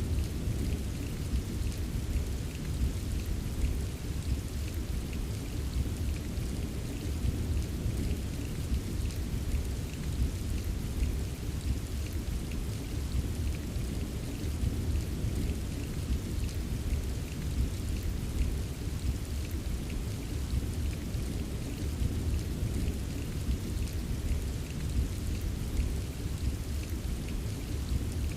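Steady rain ambience: an even wash of rain, heaviest in the low range, with fine pattering drops scattered through it and no change in intensity.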